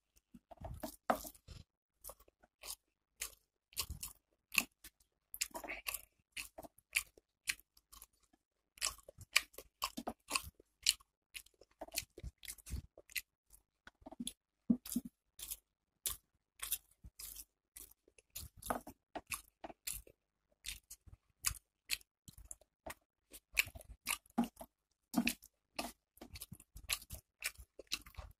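Close-up wet chewing and mouth smacking of a person eating rice and curry by hand: many short, irregular clicks, with a brief pause about eight seconds in.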